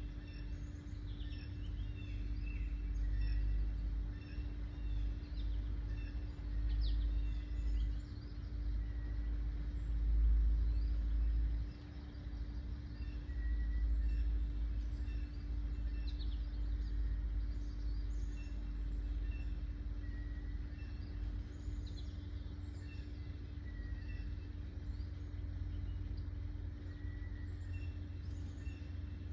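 Wild birds chirping and calling with many short high notes and a few short whistles, over a loud low rumble that swells and fades and a steady low hum.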